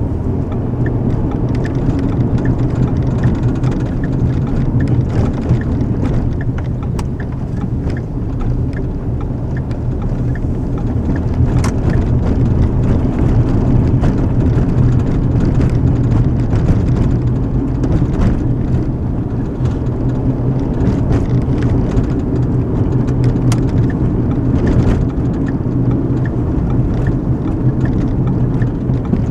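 Steady road and engine rumble of a car driving, heard from inside the cabin, with scattered faint ticks over it.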